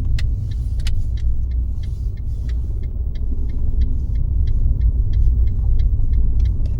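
Car driving along with a steady low rumble of road and engine noise. Many short, irregular clicks and ticks sound over it.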